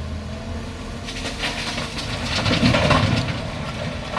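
Excavator diesel engine running steadily, with a dense rapid clattering and rattling that builds from about a second in and is loudest around the middle.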